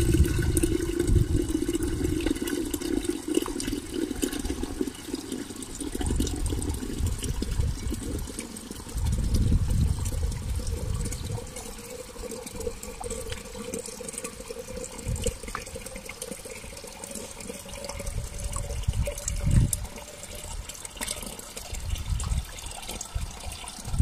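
Water running steadily into a container, the pitch of the filling rising slowly as it fills, with some low rumbling bumps along the way.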